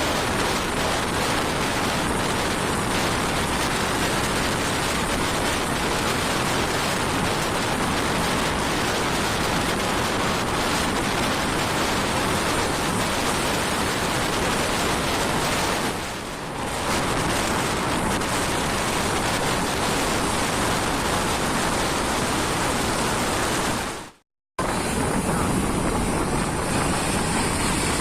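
Steady wash of road noise from a vehicle travelling on a wet road: tyres hissing on the wet surface and wind rushing past. It dips briefly a little past halfway and cuts out completely for a moment about three-quarters in.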